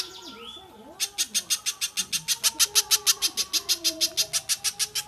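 Bird calls from a masteran training recording of spiderhunters and stork-billed kingfisher: a fast, sharp chatter of high notes, about nine a second, that breaks off for about a second at the start and then runs on. Lower gliding calls sound faintly beneath it.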